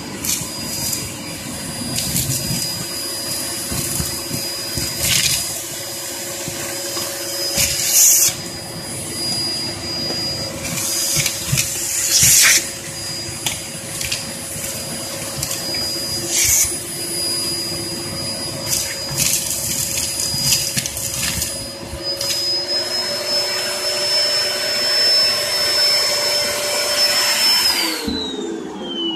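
Hoover Performer Pet upright vacuum cleaner running with a steady motor whine, with sharp crackles and rattles now and then as fireplace ash and cinders are sucked up. Its pitch rises slightly about three-quarters of the way in, then the motor cuts out and winds down near the end.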